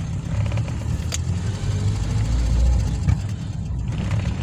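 VW Gol quadrado car running on a test drive after a front brake repair: steady low engine and road rumble, with a sharp click about a second in and a short knock about three seconds in.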